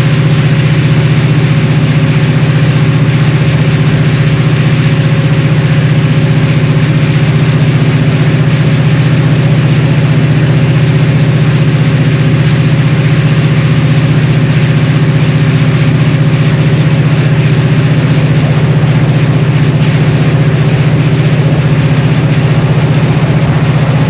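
Unmuffled EMD 645E3C turbocharged V16 diesel of a locomotive running at a steady speed, loud and unchanging, with a strong low drone.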